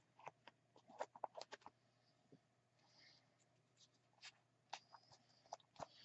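Faint, scattered light clicks and taps of rubber stamps being handled and put away, with a small cluster about a second in and a few more near the end.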